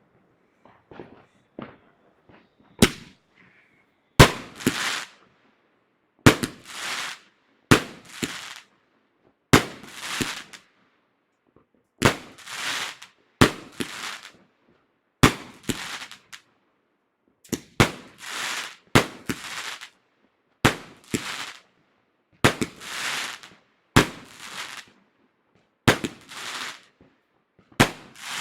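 Fireworks going off in a steady series: after a few faint pops, a sharp bang comes about every one and a half to two seconds, each followed by roughly a second of crackling hiss.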